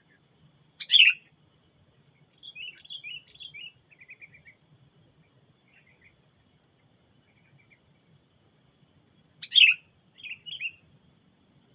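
Sooty-headed bulbul calling: a loud sharp call about a second in, a run of shorter chirps after it, and a second loud call followed by two short chirps near the end. Faint insects trill behind.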